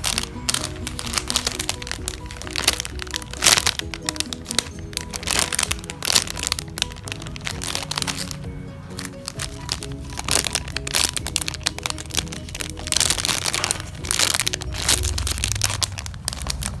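Background music with a simple melody over dense, irregular crackling and crinkling from soft foam squishy toys being squeezed and handled close to the microphone.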